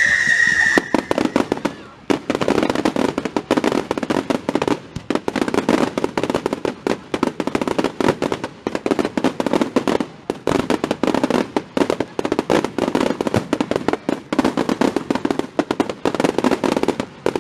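A high whistle cuts off under a second in, then fireworks crackle in a dense, rapid run of small sharp pops that keeps going, swelling and easing in waves.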